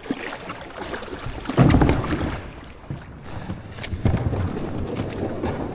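Kayak paddle strokes in water, with two louder splashing surges, one about a second and a half in and another about four seconds in, and small knocks between them.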